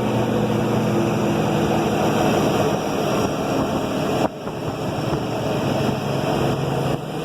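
Kenworth W900's Cat 3406E diesel engine with straight pipes running as the truck moves, heard from inside the cab. The sound drops off sharply about four seconds in, then carries on.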